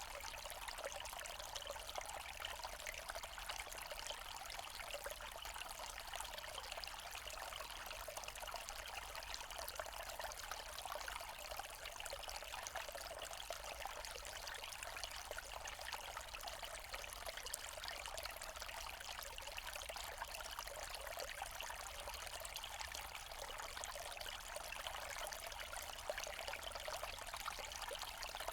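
Forest stream flowing over stones, a steady trickling and babbling of water.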